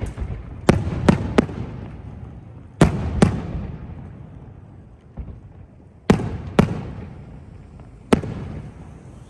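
Fireworks exploding: about eight sharp bangs, several in quick pairs, each followed by a rolling echo that dies away.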